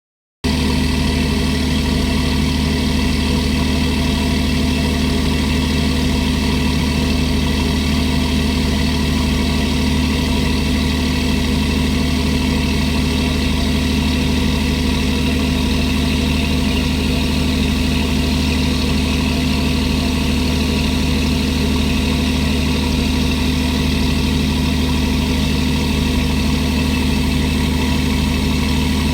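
A squid-fishing boat's engine running steadily at idle: an even, unchanging mechanical hum with a strong low drone.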